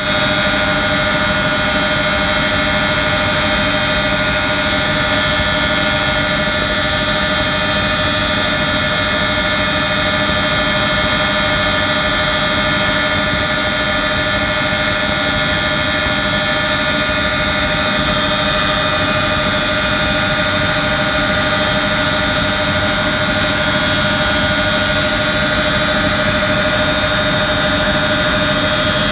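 Steady drone of a light aircraft's piston engine and propeller in flight, unchanging in pitch and loudness.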